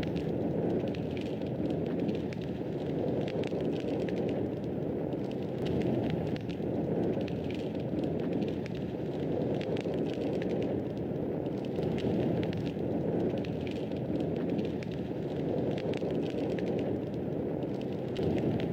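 Wood fire in a fireplace crackling: a steady low rushing noise with frequent small, irregular pops and snaps.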